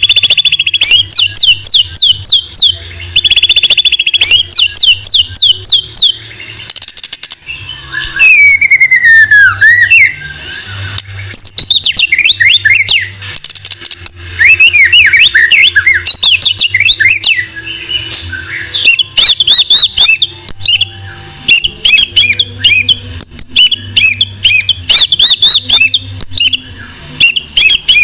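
White-rumped shama (murai batu) singing a long, varied song of rapid trills, quick rising and falling whistled notes and chattering phrases. Near the middle comes a long slurred whistle that falls in pitch.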